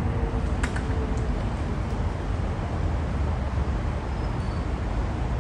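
Steady outdoor background noise: an unbroken low rumble with a hiss above it.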